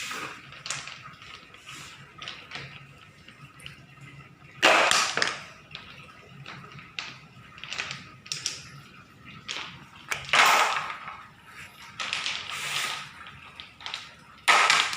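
Small stones and a plastic toy dump truck being handled: scattered light clicks and clatters, with three louder, short rattles of stones, about a third of the way in, at about two thirds, and near the end.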